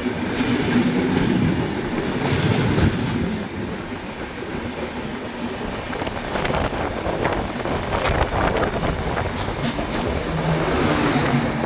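Vivek Superfast Express passenger train running along the track, a steady rumble of coach wheels on rail, with a run of sharp clacks over rail joints through the middle.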